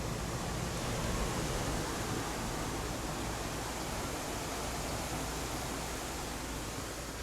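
Steady, even rush of ocean surf breaking on the beach.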